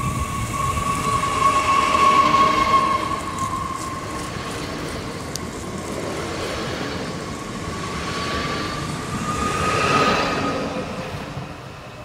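TER regional electric train passing close through a station on snow-covered track, running noise with a steady high whine through it. It is loudest about two seconds in, swells again around ten seconds, then fades.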